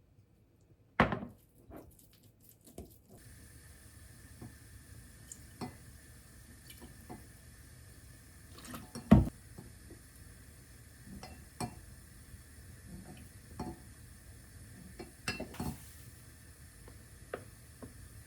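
Kitchen clatter: dishes, utensils and cookware clinking and knocking in scattered single hits, the loudest about a second in and about halfway through. A steady hum sets in about three seconds in.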